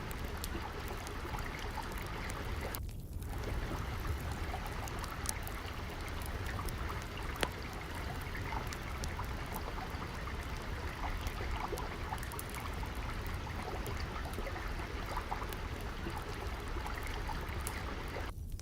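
Water flowing and trickling steadily, with scattered small crackles and pops of a wood fire over it. The water sound thins out briefly about three seconds in.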